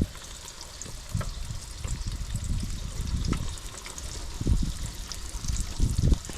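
Rainwater trickling and dripping, with scattered low knocks and thumps.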